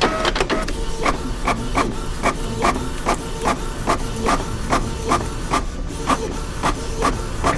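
Office printer running: a sharp clack, then regular mechanical strokes about two and a half a second, each with a short whirring tone, over a steady low office hum.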